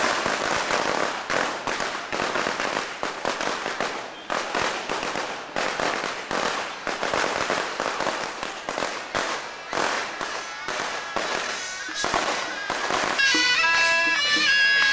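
Strings of firecrackers crackling in rapid, uneven volleys. Near the end the crackling gives way to traditional reed wind-instrument music.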